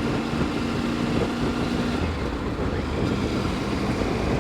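Triumph Tiger 900 GT Pro inline-three engine running at a steady cruise under wind and road noise, as heard at the rider's helmet. A steady low engine tone fades into the rush of wind about halfway through.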